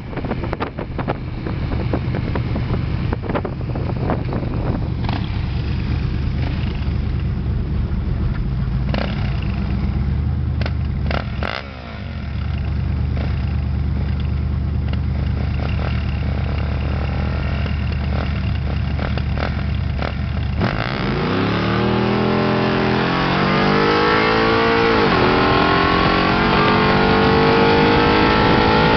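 1974 Oldsmobile Omega's engine heard from inside the car, running steadily at cruise for about twenty seconds. Then it is given full throttle: the pitch climbs, drops at a gear change a few seconds later, and climbs again as the car accelerates hard.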